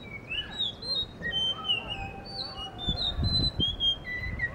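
Blue whistling thrush singing: a quick run of clear whistled notes that glide up and down, with a brief low rumble about three seconds in.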